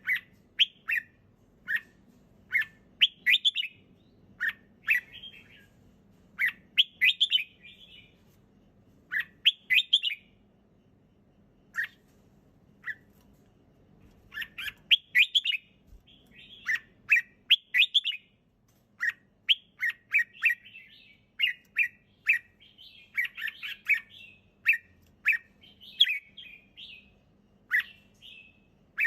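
Red-whiskered bulbul singing: short, clear, warbling phrases repeated every second or so, with a few seconds' pause about midway.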